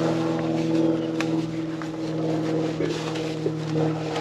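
TYM 4815 compact tractor's diesel engine running steadily at a constant speed, with a single sharp click about a second in.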